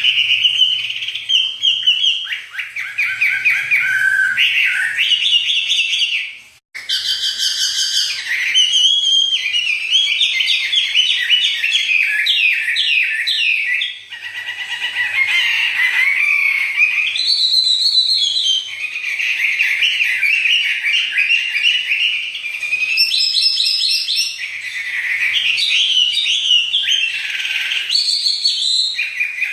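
A songbird singing loudly and continuously in rapid, varied phrases of trills, chirps and whistles, with one brief break about seven seconds in.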